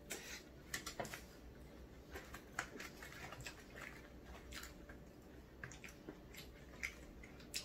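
Close-miked chewing of tteokbokki rice cakes: wet mouth sounds and scattered short clicks, with chopsticks tapping in the takeout tray.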